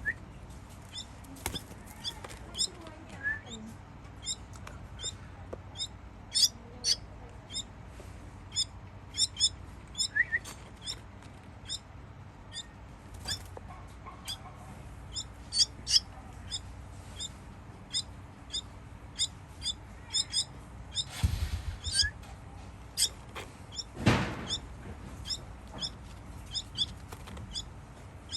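Baby bird chirping while being fed, a string of short, high-pitched calls repeated irregularly, typical begging calls. Two brief, louder thumps come about three-quarters of the way through.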